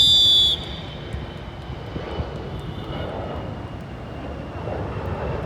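A short, sharp referee's whistle blast at the very start, the loudest sound here, followed by a steady low rumble of background noise.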